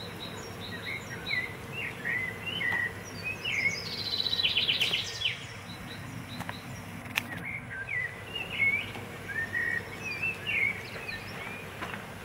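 Birds chirping and singing throughout, with a fast trill about four seconds in. A few sharp clicks sound in the middle.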